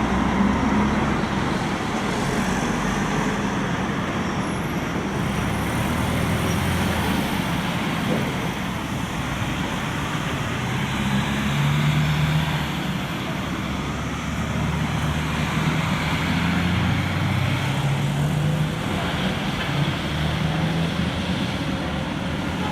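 Convoy of buses and traffic driving past on a city street, engines running with a low hum that shifts in pitch as vehicles go by, over steady road noise.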